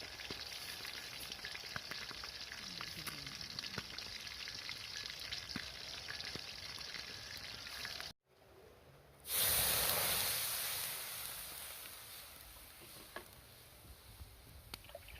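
Food frying in hot oil, a steady sizzle with small crackles. After a brief break about eight seconds in, a much louder sizzle starts suddenly and slowly dies down.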